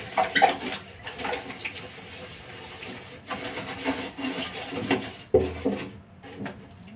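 Steel wool scrubbing a hard surface in rough, irregular strokes, scraping off stuck-on paper.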